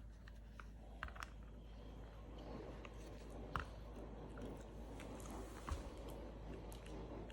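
Faint scattered clicks and soft rustling: small handling noises.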